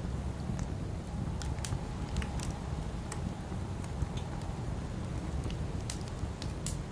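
Wood campfire crackling, with irregular sharp pops a few times a second, over a steady low rush of wind.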